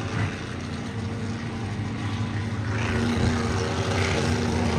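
Monster truck's supercharged V8 engine running and revving, its pitch shifting and climbing about three seconds in.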